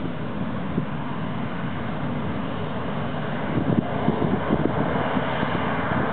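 The CFM56 turbofan jet engines of a Boeing 737-500 airliner running as a steady rushing roar, which grows a little louder about three and a half seconds in.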